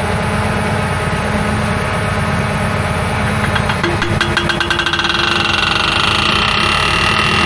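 Tractor engine idling steadily. About three and a half seconds in, a whine joins it and slowly falls in pitch as the three-point hitch hydraulics are worked.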